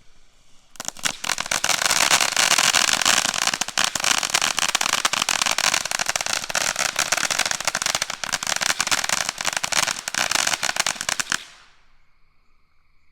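A consumer firework fountain crackling hard: a dense rush of crackles that sets in abruptly just under a second in, holds for about eleven seconds, then stops sharply.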